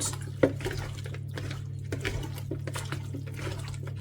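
Irregular wet splashing and squelching kitchen sounds, with a sharp knock about half a second in, over a steady low hum.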